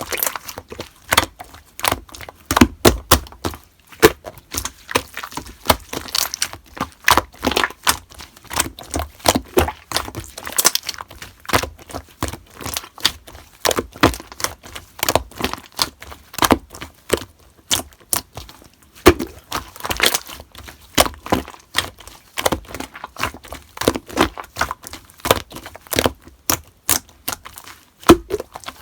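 Slime being squeezed and pressed by hand, giving a dense run of sharp, irregular popping and crackling clicks, several a second, as air pockets burst.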